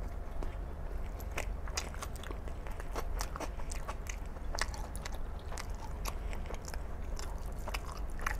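Close-miked human chewing: irregular wet mouth clicks and crunches as a mouthful of mutton curry and rice is eaten with a bite of raw onion.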